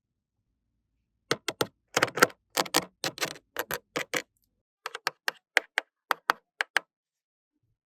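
Small plastic toy pieces being handled, giving about twenty sharp clicks and taps, some in quick runs. They start a little over a second in and stop near the end.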